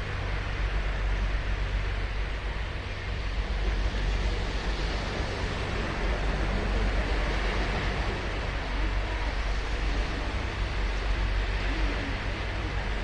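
Ocean surf breaking and washing ashore in a steady, unbroken rush with a deep low rumble, swelling and easing a little every few seconds.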